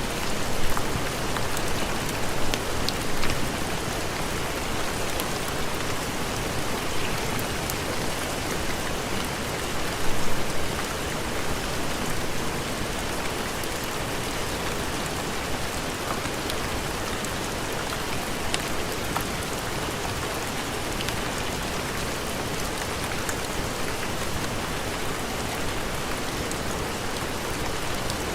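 Steady heavy rain, an even hiss with scattered small ticks of drops, swelling briefly louder about ten seconds in.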